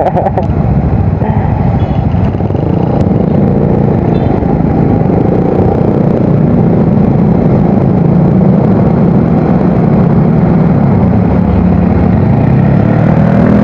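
Yamaha Mio Soul GT scooter running under way through a new aftermarket exhaust, a steady engine drone that grows a little louder in the second half.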